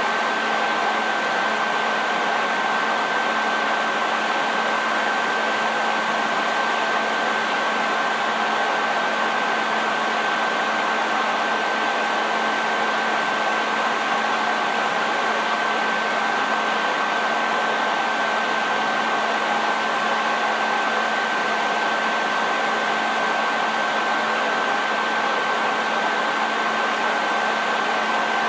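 Hair dryer running steadily: an even rushing of air with a steady high whine from the motor and fan and a faint low hum underneath.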